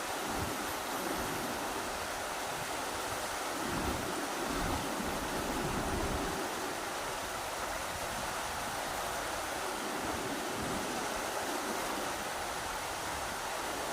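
Rushing river: a steady wash of water noise, with a low rumble of wind a few seconds in.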